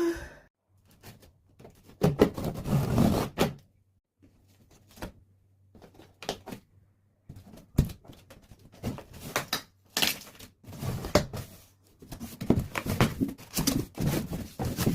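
A new microwave's cardboard box and packaging being handled and opened by hand. There is a rough scraping and rustling stretch about two seconds in, then a string of irregular knocks, thuds and scrapes.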